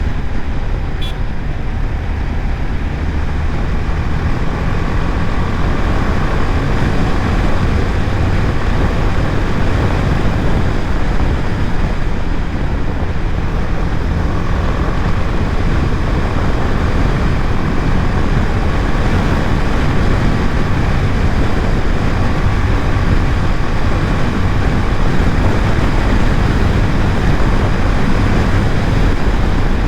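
BMW G 310 GS motorcycle cruising at steady highway speed: its single-cylinder engine running under the steady rush of wind over the microphone.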